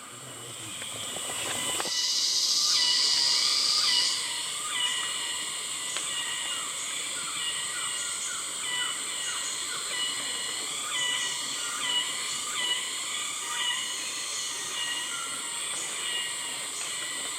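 Dense tropical forest insect chorus: a steady high-pitched cicada buzz, with a louder hissing cicada call swelling in over the first two seconds and cutting off about four seconds in. Many short chirping calls repeat throughout over the drone.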